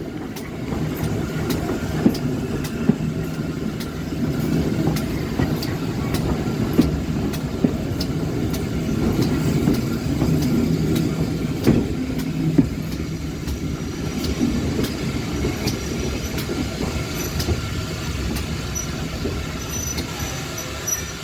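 Steam-hauled train rolling into a station at low speed: a steady rumble of wheels with regular clicks over the rail joints, and short high-pitched squeals of wheels or brakes in the last few seconds as it slows.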